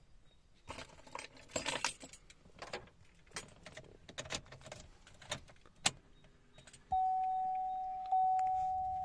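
Keys jangling and clicking for several seconds. Then, about seven seconds in, a pickup's warning chime starts: one steady tone that re-strikes about once a second, the sort a truck gives with the key in the ignition or a door open.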